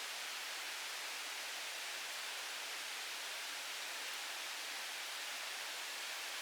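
Steady, even hiss of outdoor background noise in a forest, with no distinct events.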